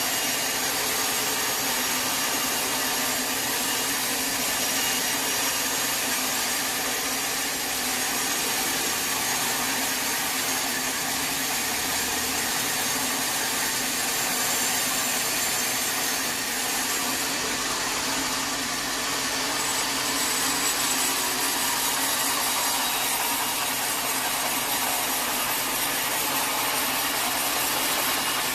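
Sawmill saw cutting through a log: a steady, unbroken sawing noise with a faint high whine running through it.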